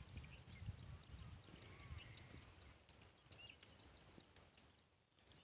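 Near silence: faint outdoor ambience with scattered short bird chirps over a low rumble, dying away near the end.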